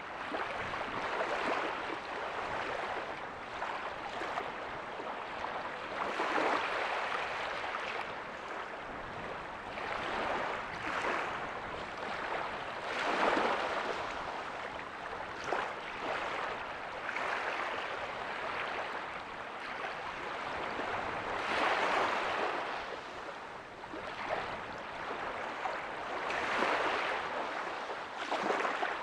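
Ocean waves breaking softly on a beach, a steady wash of surf swelling every five to seven seconds as each wave comes in.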